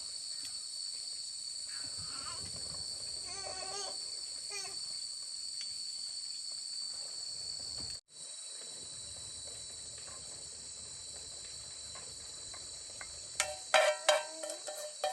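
Steady high-pitched insect chorus, with a few short wavering animal calls about three to five seconds in. Near the end, a run of sharp, loud plucked-sounding notes begins.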